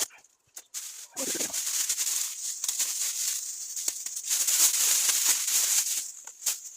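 Crinkling and rustling of plastic wrapping being handled, with many small crackles. It starts after a near-silent first second and runs on in irregular bursts.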